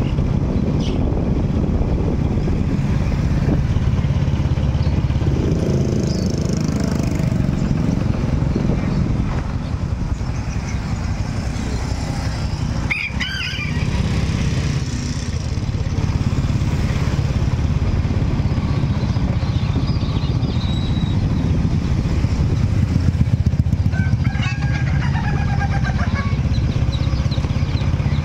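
A small engine, likely a motorcycle, running steadily close by, with a few brief high chirps about halfway through and again near the end.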